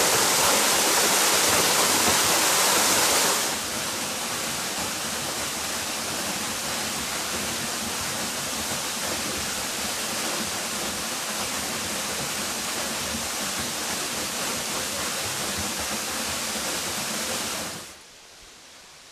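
Waterfall's rushing water, a steady hiss with no other sounds standing out. It steps down in level about three and a half seconds in and falls away to a much quieter rush near the end.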